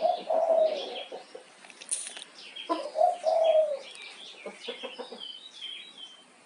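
Birds calling: two longer pitched calls of about a second each, one near the start and one about three seconds in, over many short high chirps.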